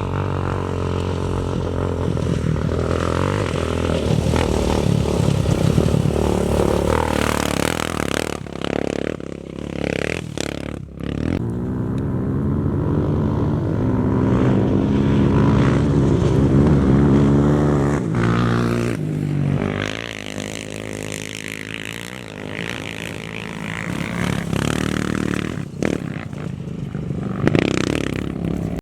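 Off-road racing engines revving as machines go by, the pitch rising and falling as they accelerate and shift. They get louder about a third of the way in and again around the middle, and fade a little in between.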